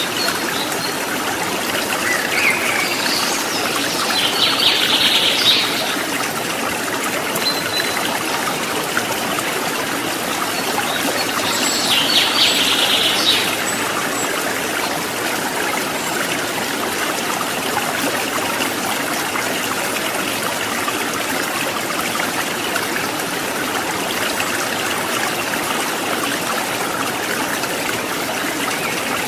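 Water trickling and babbling steadily over rocks, with small birds calling: a rapid high trill about four seconds in and again about twelve seconds in.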